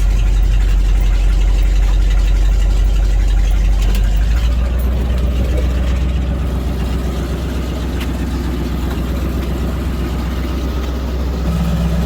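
1982 Chevrolet square-body ambulance's V8 engine idling steadily. Its low tone changes about four and a half seconds in, and a higher steady hum joins near the end.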